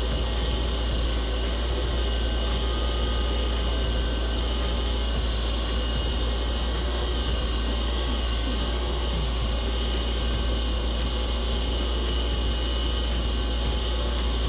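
Wood lathe running steadily, spinning a resin blank during polishing with abrasive paste: a steady motor hum and whir with a faint tick about once a second. The sound starts to die away at the very end.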